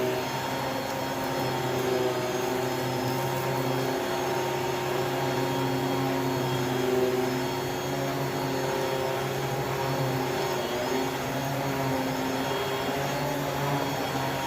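Water-filtration vacuum cleaner running steadily, a constant motor hum with an even rushing of air.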